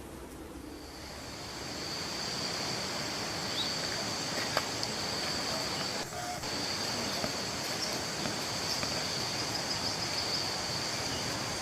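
Steady high-pitched insect drone, typical of crickets or cicadas, over a background hiss of outdoor noise. It swells in over the first second or two and breaks off briefly about six seconds in.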